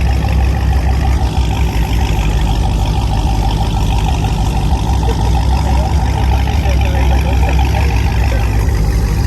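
Car engine running steadily with a constant deep rumble and no revving.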